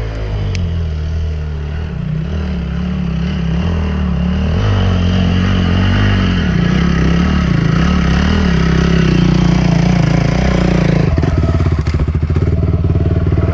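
Enduro dirt bike engine running as it is ridden, its pitch rising and falling with the throttle and gradually getting louder. From about eleven seconds in it runs harder, with a rougher, rattly note.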